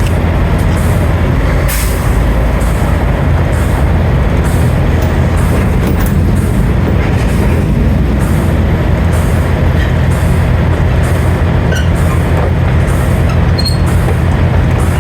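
Semi-truck's diesel engine and road noise heard inside the cab while driving: a loud, steady low drone.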